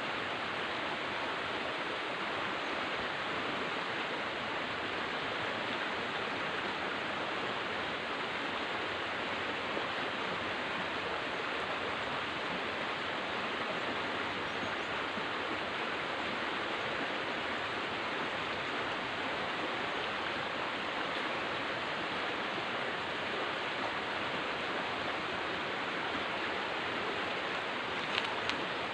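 River water flowing: a steady, even rushing noise, with two short ticks just before the end.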